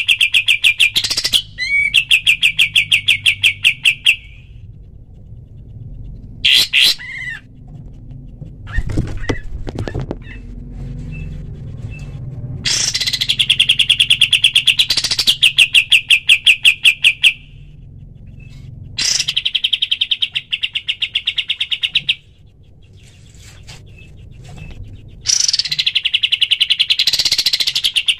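Kapas tembak songbird singing its rapid-fire 'tembakan' song: bouts of fast, evenly repeated high notes lasting a few seconds each, separated by pauses with a few short single calls.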